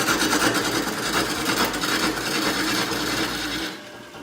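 Turning tool cutting a spinning birch burl on a wood lathe: a steady rasping scrape over the lathe's low hum. Both stop a little before the end.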